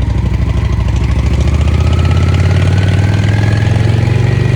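Motorcycle engine running as the bike rides along, with a faint whine that rises slowly in pitch as it gathers speed.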